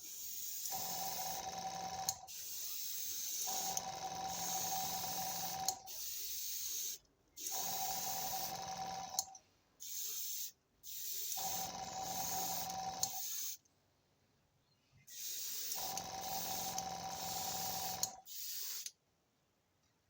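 Paint spraying in repeated hissing bursts of a second or a few seconds each with short pauses, a steady faint whistle running through most bursts, as a metallic blue colour coat goes on over the base coat.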